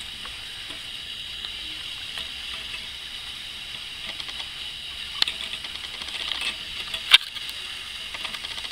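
Light scattered clicks and taps over a steady hiss, with a sharper click about five seconds in and the loudest one about seven seconds in.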